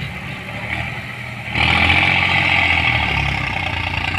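Diesel tractor engines running hard under heavy pulling load, as in a tractor tug-of-war; the engine noise gets suddenly louder and harsher about a second and a half in.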